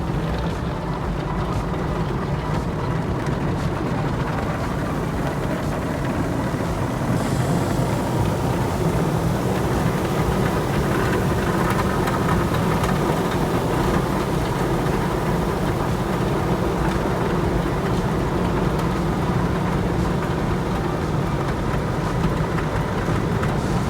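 Automatic car wash running: a steady, even rush of noise with a low hum underneath, growing slightly louder about a third of the way in.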